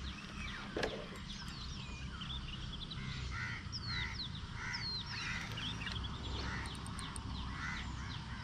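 Birds calling: a short, coarse call repeated every half-second or so from about three seconds in, over higher chirps that slide down in pitch.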